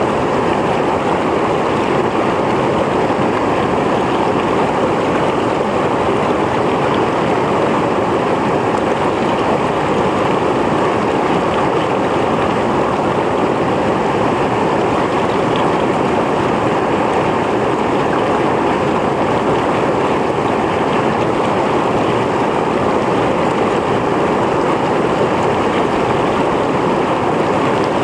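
Mountain stream rushing over rocks, a steady loud flow of water.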